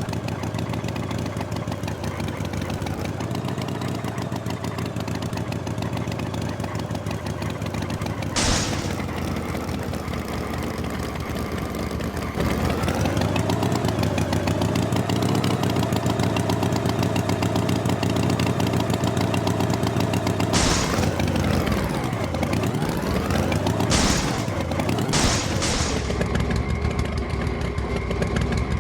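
Tractor engine sound running steadily, getting louder about twelve seconds in. It has a few sharp clicks, and near the end its pitch dips and rises again several times as it revs.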